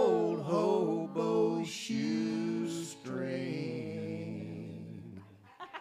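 Live acoustic folk band ending a song: the last sung line held over strummed acoustic guitars for about three seconds, then a final chord ringing on and fading away.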